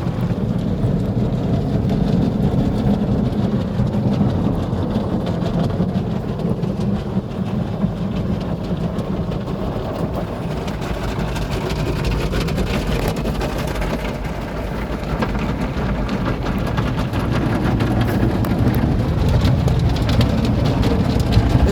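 Automatic car wash working over a car, heard from inside the cabin: spinning brushes scrubbing the body and water spraying on it in a steady, dense wash, with a busier patter near the end.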